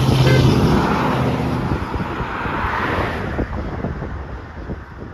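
A truck passing close by: its engine hum and road noise are loudest in the first couple of seconds, then fade away after about three seconds.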